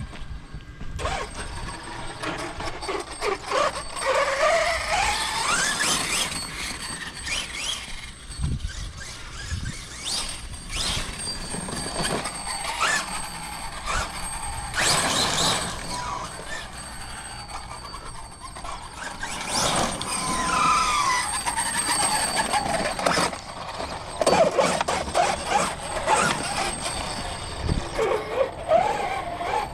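Losi 5ive TE 3.0 1/5-scale electric truck being driven: its motor and drivetrain whine, rising and falling in pitch several times as it speeds up and slows, with bursts of rougher running noise in between.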